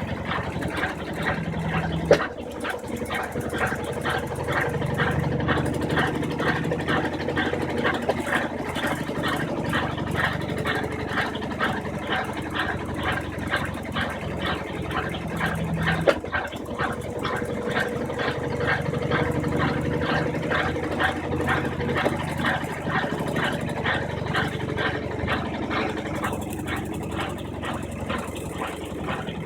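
Brastemp 15 kg washing machine agitating in its rinse cycle: a steady motor hum under a fast, even swishing rhythm. There is a sharp click about two seconds in and again about sixteen seconds in, each marking a new stroke of the wash cycle.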